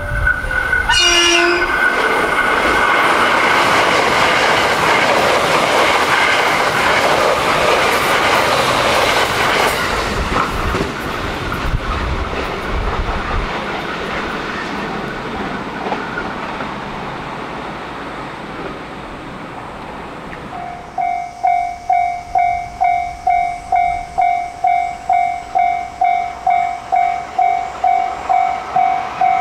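A JR West 681/683-series limited express electric train passes at speed, its running noise and wheel clatter swelling and then slowly fading, with a short horn blast about a second in. About three-quarters of the way through, a railway level-crossing warning bell starts ringing, about two and a half even strikes a second.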